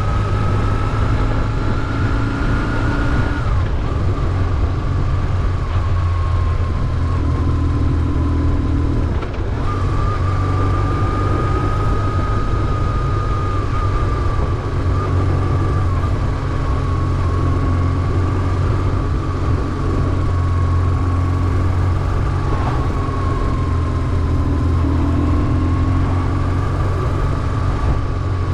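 BMW R1150GS air-and-oil-cooled flat-twin boxer engine running steadily under way, with a thin high whine that drops about three and a half seconds in and returns about nine and a half seconds in.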